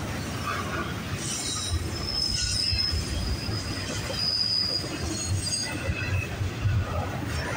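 CN intermodal freight train rolling past, its wheels rumbling on the rails. A thin, high, steady wheel squeal rises over the rumble for a couple of seconds in the middle.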